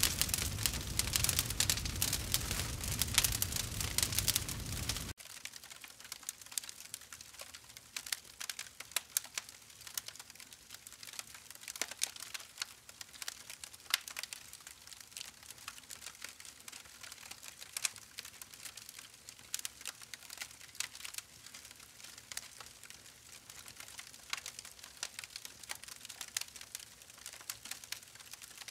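Campfire crackling and popping, a steady stream of sharp snaps and ticks over a soft hiss. About five seconds in, the level drops suddenly and the crackles become quieter and sparser.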